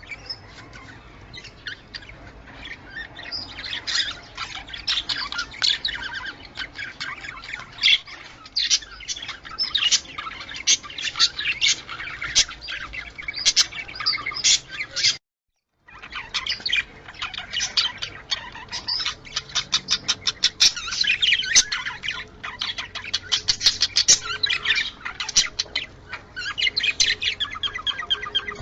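Budgerigar chatter: fast, continuous chirping and warbling with squawks mixed in. It breaks off into silence for about half a second midway.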